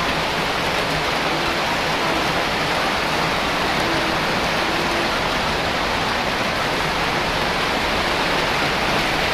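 Heavy rain pouring steadily, a dense even hiss of downpour.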